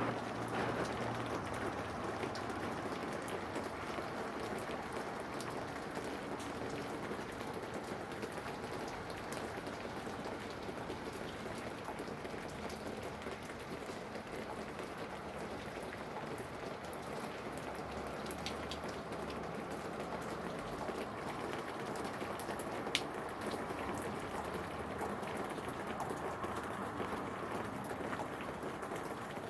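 Steady rain falling, with many small drop ticks and one sharper tick about three-quarters of the way through.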